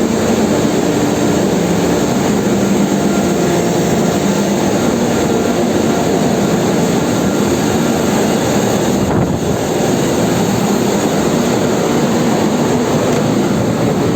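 Loud, steady drone of a tanker's engine-room machinery running: a dense mechanical noise with a low hum, unbroken throughout.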